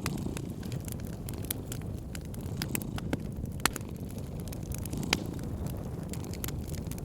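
Wood fire crackling, with irregular sharp pops over a steady low rumble; two louder pops come a little past the middle.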